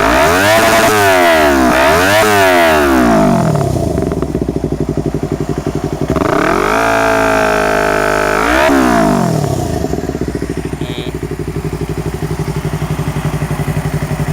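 Yamaha MT25's parallel-twin engine through a Proliner TR1 stainless full-system exhaust with no dB killer, revved in a few quick blips, then idling. About six seconds in it is held at higher revs for roughly two seconds, drops back with one more blip, and settles to a steady idle.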